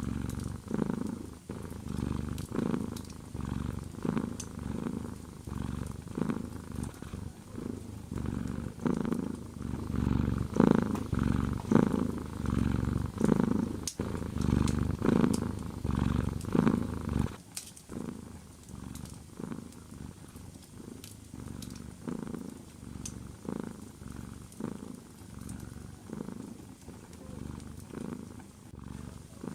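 A domestic cat purring in pulses that swell and fade about once a second. It becomes noticeably quieter and thinner a little past halfway.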